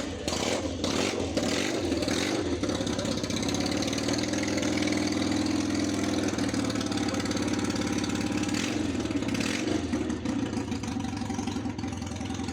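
A motorcycle engine running steadily at idle.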